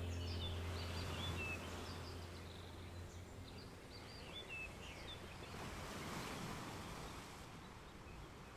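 Small birds chirping in short quick calls over a soft steady outdoor hiss, the chirps dying away about five seconds in. A low held music drone fades out in the first few seconds.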